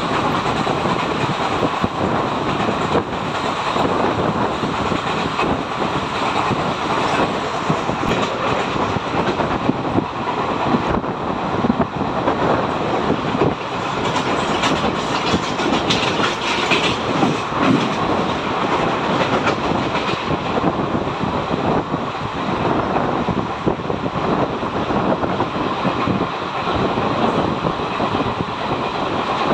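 Indian Railways passenger train running at speed, heard at an open coach window: steady wheel-and-rail noise with a dense run of clicks and knocks from the wheels over the track.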